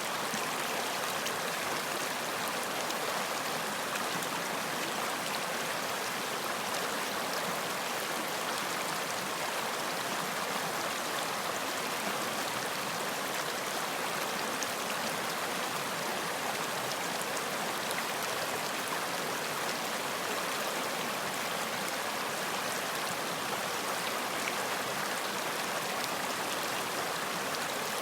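Running water of a stream flowing over rocks, a steady rushing and babbling with small splashes, unchanging throughout.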